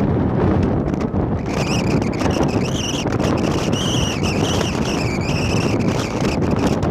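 Jet airliner's turbofan engines: a high, wavering whine comes in about a second and a half in, over a heavy rumble of wind buffeting the microphone.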